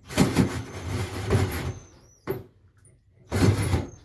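A tool cutting or abrading the stove fitting with light pressure, in rough, noisy bursts: one long stretch, a short one in the middle and another near the end.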